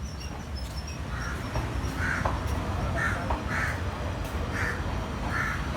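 Crows cawing, about six caws at uneven intervals, over a steady low rumble.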